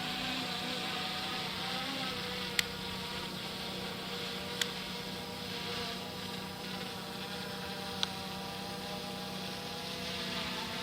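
Cinemaster 2 quadcopter drone hovering, its propellers giving a steady whine of several pitches that waver slightly, with three small sharp clicks.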